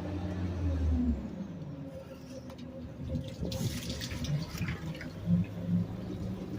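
Garbage truck engine dropping from a high rev back to idle about a second in, then idling, with a brief hiss a few seconds later.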